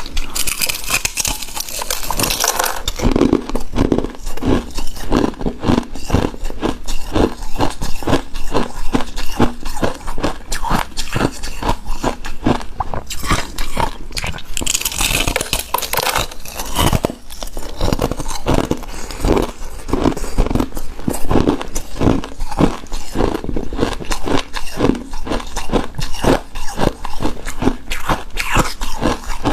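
Close-miked eating of shaved ice, crunching and chewing the icy dessert in a steady rhythm of about two to three crunches a second. There are two longer hissy stretches, near the start and about halfway.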